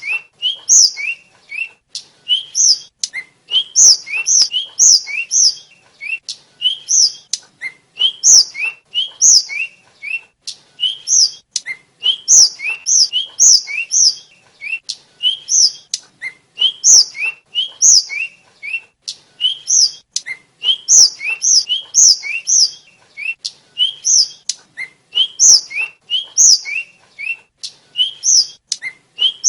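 A tledekan (sulingan), a small Javanese flycatcher, singing continuously: short, high, clear whistled notes that slide in pitch, given in quick phrases of three or four notes that repeat over and over with brief pauses.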